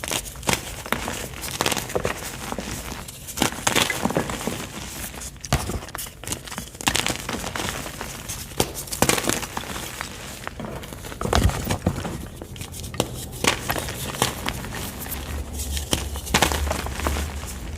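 Blocks of white gym chalk crushed by hand, soft crumbling and crunching with frequent irregular crackles.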